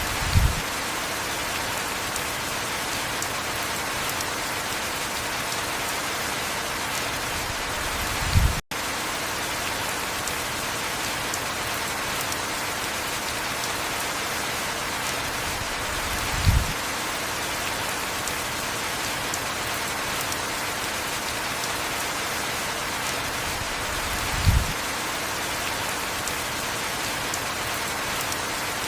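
Steady heavy rain. A brief low thud comes about every eight seconds, four in all, and the sound cuts out for a split second about nine seconds in.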